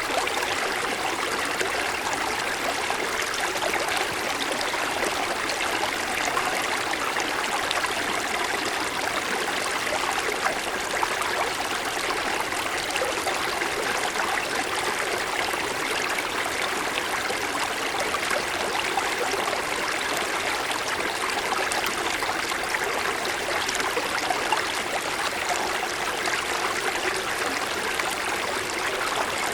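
A small mountain stream running steadily over snow-covered stones, a continuous babble and trickle of water.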